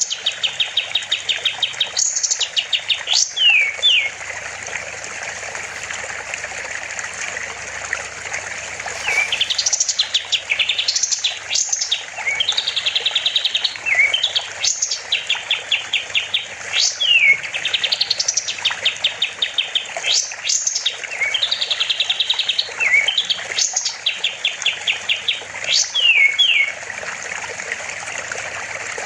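Kapas tembak songbird singing: phrases of rapid trilled notes broken by quick downward-sliding whistles, repeated again and again over a steady hiss, with a pause of a few seconds near the start.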